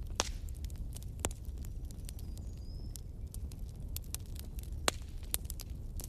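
Fireplace fire crackling: a steady low rumble with frequent small pops and clicks, a few sharper pops standing out.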